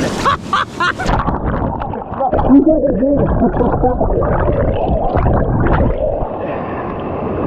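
Muffled churn and gurgle of fast-moving water heard with the microphone underwater; about a second in the high sounds cut off suddenly as it goes under.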